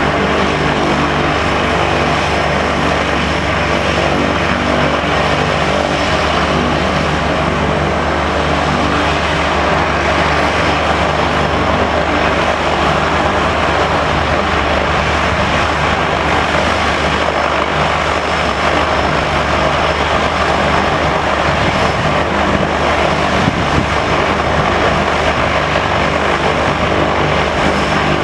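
Cessna 208B Super Cargomaster's single turboprop engine and propeller running steadily and loudly close by, a constant droning hum over a dense turbine rush with no change in pitch.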